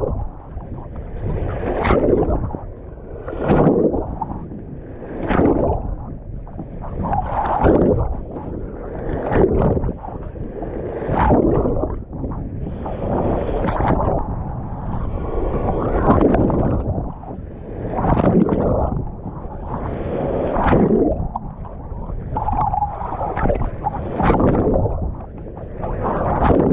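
Big waves surging and splashing in a repeating rhythm, about one every two seconds, over a steady low rumble.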